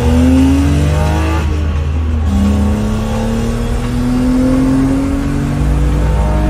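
BMW E34's engine accelerating, heard from inside the cabin: the revs climb, fall away about two seconds in at an upshift, then rise again in one long, slow climb.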